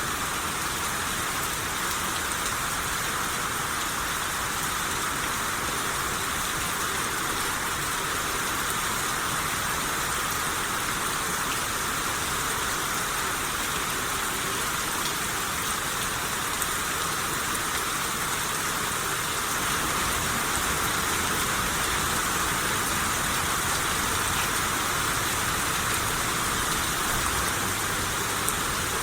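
Steady rain shower falling and pattering on surfaces, a dense, even hiss that grows slightly louder about two-thirds of the way through.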